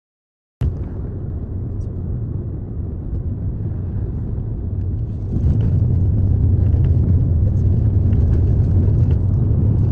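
Steady low rumble of a moving car, road and engine noise, cutting in abruptly just after the start and growing louder about five seconds in.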